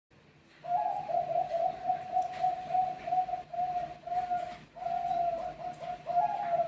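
Zebra dove (perkutut bangkok) cooing: after a brief silence, a long, even series of short rolling coo notes begins under a second in, about three a second.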